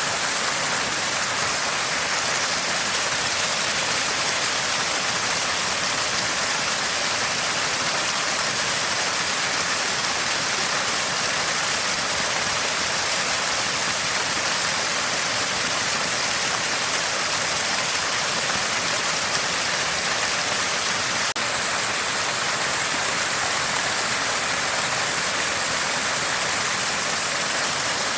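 Water spouting from a small spring, a steady, even gurgling rush that does not change.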